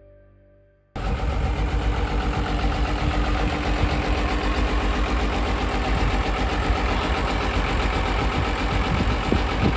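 A vehicle engine idling loudly with a fast-pulsing low rumble, cutting in suddenly about a second in.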